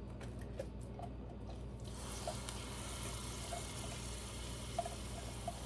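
Chopped onions frying in hot oil in a wok: after a few faint clicks, a steady sizzling hiss sets in about two seconds in, with occasional small pops.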